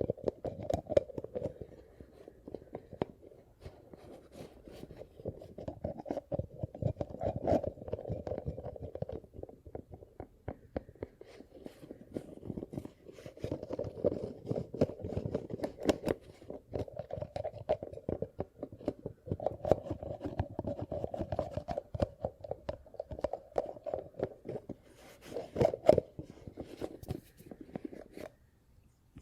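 Dense crackling and crunching close to the microphone, an ASMR trigger, coming in stretches of a few seconds and stopping about a second before the end.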